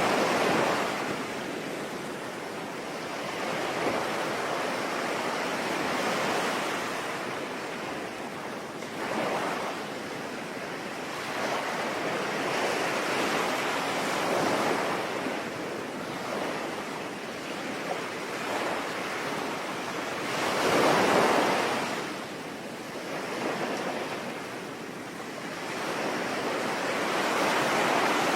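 Sea waves breaking and washing in slow surges every few seconds, the biggest about three quarters of the way through, over a steady hiss of rain.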